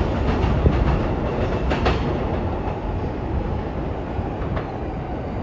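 Electric commuter train running along the platform: a steady rumble with a few sharp wheel clacks over the rail joints, easing off slowly.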